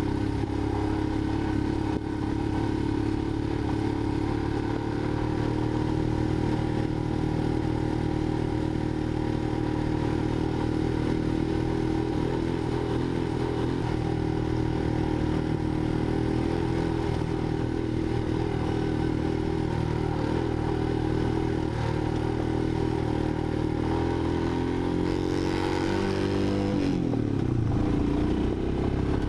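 Single-cylinder motorcycle engine running at steady revs while riding an off-road track, dropping in pitch briefly near the end as the throttle is eased off, then picking up again.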